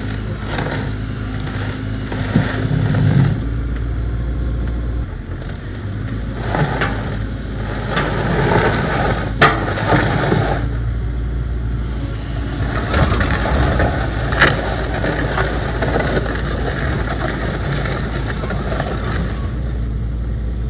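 Hitachi excavator's diesel engine running under work, swelling and easing as the machine moves, with two sharp metallic clanks, one about halfway through and another a few seconds later.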